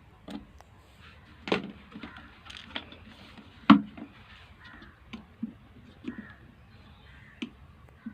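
Clicks and knocks from an electric kettle's plastic and metal parts being handled as its wiring connector is pushed on during reassembly, with two louder knocks about a second and a half in and near four seconds, and lighter clicks after.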